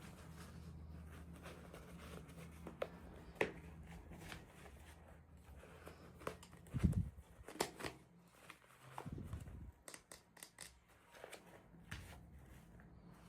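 Hands unboxing small toys: scattered light clicks, taps and rustles of packaging and small plastic pieces being handled, busiest a little past halfway, over a faint low hum.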